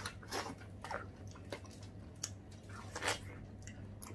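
People biting into and chewing wedges of fresh watermelon: a run of short, wet bites and chews at irregular intervals, the loudest about three seconds in.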